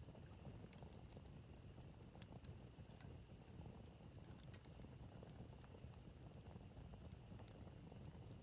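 Campfire burning quietly, with scattered small crackles and pops over a low steady rumble.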